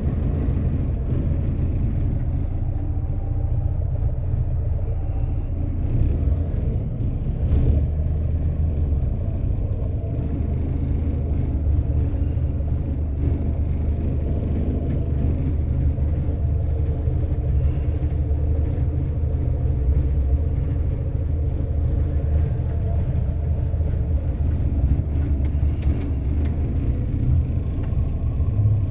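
Steady low rumble of a car on the move: engine and road noise holding even throughout, with no sharp events.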